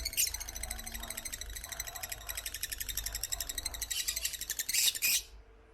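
African lovebirds chattering: a fast, shrill run of chirps that cuts off about five seconds in.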